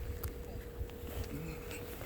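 Low rumble with a faint, steady hum.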